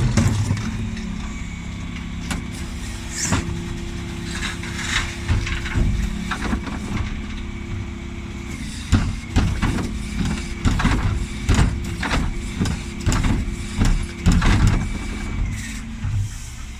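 Dennis Elite 6 bin lorry running, with a steady high whine over the engine. About halfway through comes a run of sharp knocks and clatters lasting several seconds.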